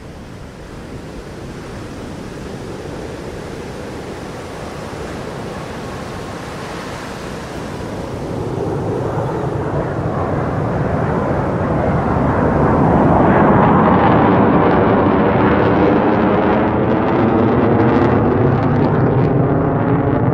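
Fighter jet passing low overhead: its jet noise rises steadily from a distant rush to a loud, sweeping roar over about thirteen seconds and stays loud to the end.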